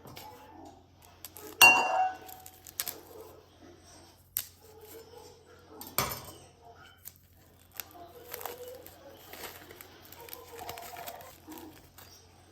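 Scattered clinks and knocks of hard objects being handled, the loudest about a second and a half in and another about six seconds in, over a faint steady low hum.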